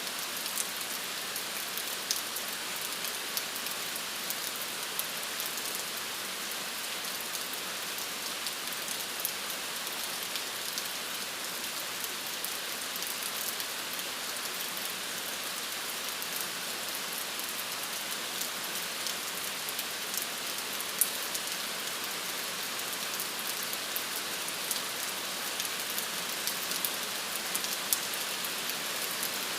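Steady rainfall, an even hiss with many individual drops pattering close by.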